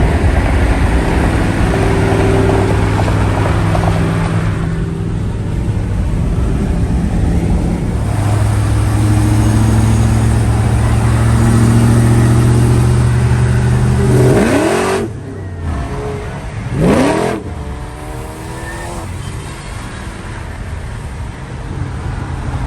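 Car engine running with a steady drone. About two-thirds of the way through there are two quick sweeps in engine pitch, and after them it runs quieter.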